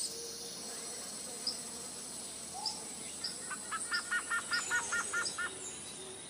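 Birds chirping over a steady background hiss. A short high chirp repeats about every half second to a second, and from about three and a half seconds in, a quicker run of lower paired notes comes at about five a second. The run stops about a second before the end.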